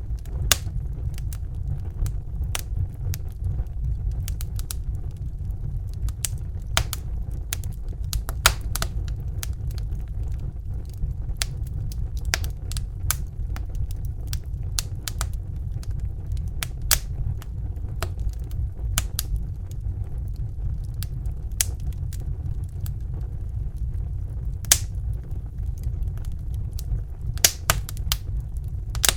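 Fire crackling: irregular sharp pops and snaps, some louder than others, over a steady low roar.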